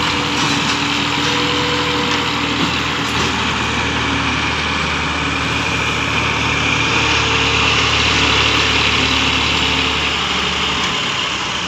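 Tractor engine running steadily, with a slight rise in level in the second half.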